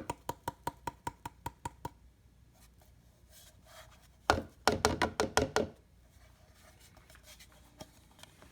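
Rapid tapping, about six taps a second for two seconds with a faint ring, then a second cluster of louder knocks about four seconds in: the container of fresh ground coffee being tapped to knock the grounds out into the brew chamber.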